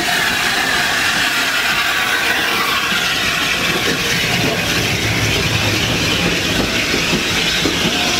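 A heritage railway train running past at a steady, loud level, its wheels and carriages rumbling and clattering on the track.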